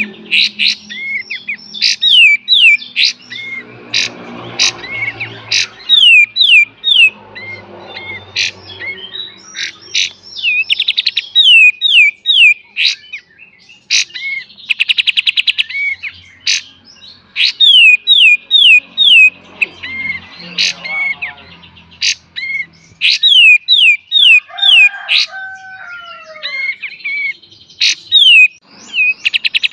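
Kapas tembak bulbul singing loudly. Its song is runs of three or four sharp, falling whistled notes, repeated over and over, with a rapid buzzy rattle about halfway through.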